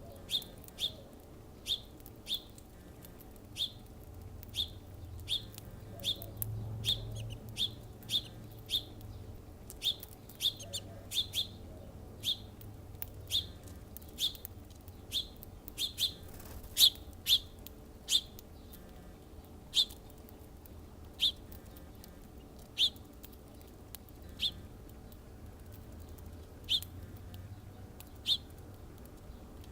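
A bird chirping over and over: short, sharp single chirps, one or two a second with brief gaps, over a faint low rumble.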